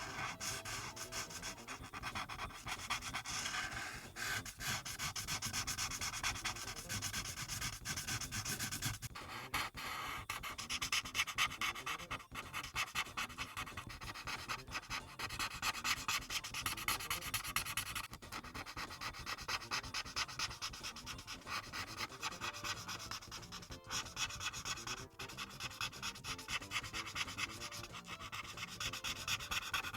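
Ohuhu Kaala series marker nib rubbing across paper in quick back-and-forth colouring strokes, many strokes a second with brief pauses between passes.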